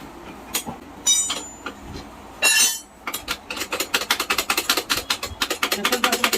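Metal tools clank a few times on a motorcycle engine, with a short scraping burst about two and a half seconds in. From about three seconds in comes a fast, even run of sharp metallic clicks, about nine a second.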